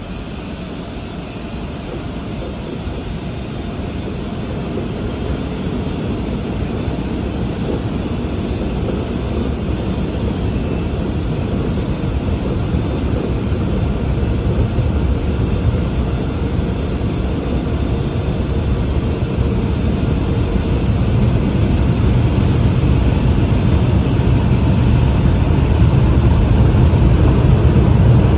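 Automatic car wash machinery running: a steady roar that grows slowly louder.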